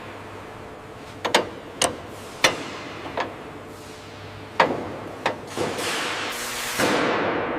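Hammer strikes on metal: about seven sharp, ringing knocks at uneven intervals. Near the end they give way to a steady rushing hiss.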